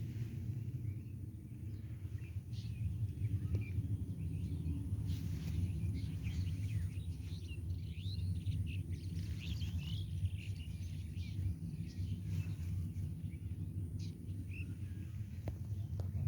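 Small birds chirping and calling in short, scattered notes over a steady low rumble.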